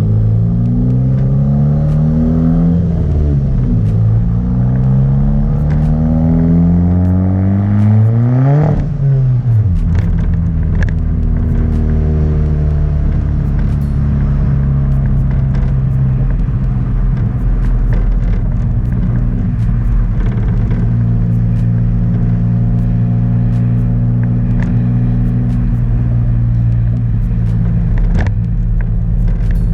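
Dodge Caliber SRT-4's turbocharged four-cylinder engine pulling hard, its pitch rising through one gear, dropping at a shift, then rising again. About nine seconds in the driver lets off and the engine note falls sharply, then settles into a steady cruise.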